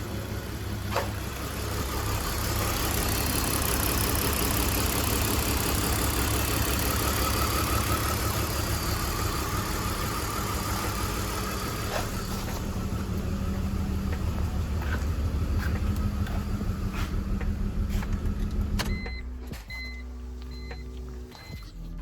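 BMW E46 325xi's 2.5-litre inline-six started and running, with the cylinder-4 misfire that the owner puts down to low compression in that cylinder. Its sound drops away about 19 seconds in, followed by a few short electronic beeps.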